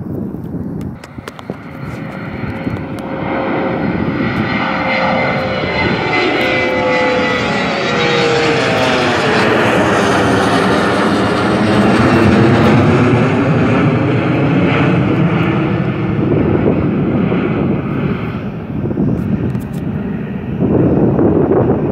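Departing airliner climbing out past the listener, its engine noise swelling over several seconds, peaking about halfway through, then fading, with a sweeping whoosh as it goes by.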